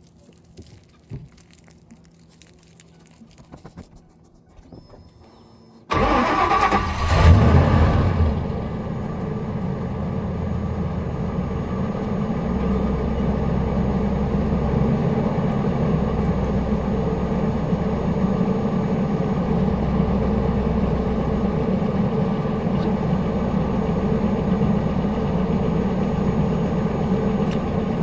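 1999 Ford F250's 4.6-litre V8 starting from cold about six seconds in, heard at the tailpipe: it catches at once with a brief rev, then settles into a steady idle with a low, even throb.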